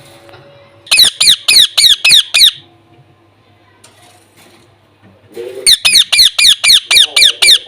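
Indian ringneck parakeet screeching in two bursts of rapid, harsh calls, each call a quick falling note, about four a second. The first burst starts about a second in and the second near the end.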